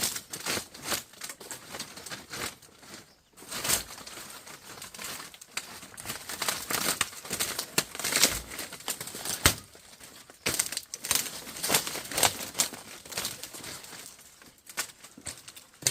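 Irregular rustling, crackling and snapping as an old, rotten chicken coop is pulled apart by hand.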